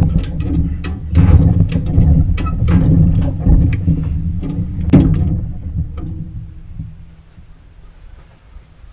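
Come-along being cranked to tension a chain and pull a seized PTO shaft apart, with a series of sharp clicks at uneven spacing over a low rumble for about five seconds, fading away by about seven seconds in.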